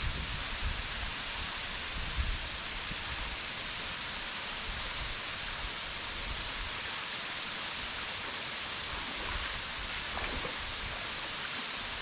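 Steady rush of the stream flowing over the rocks at the head of the waterfall.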